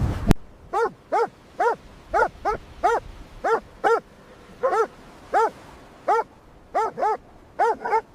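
Golden retriever barking over and over, about two short barks a second, some coming in quick pairs. A sharp click sounds at the very start.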